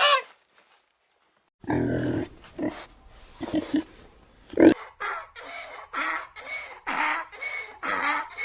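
A pig grunting, then giving short repeated squealing calls about twice a second.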